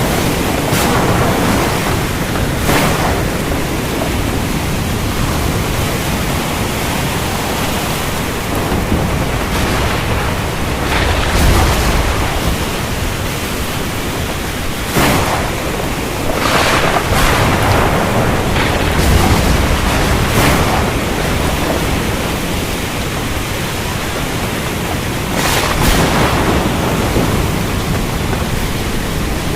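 Heavy steady rain with thunder rumbling several times, the longest and deepest rumble a little past the middle.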